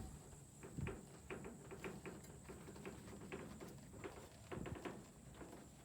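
Faint, irregular clicks and taps, a few each second.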